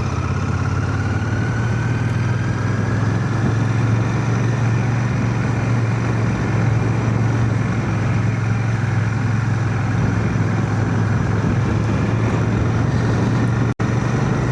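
Royal Enfield Shotgun 650's parallel-twin engine running steadily on the move, heard through a microphone inside a full-face helmet, with a thin whine rising slowly in pitch over the first few seconds. The audio cuts out for an instant near the end.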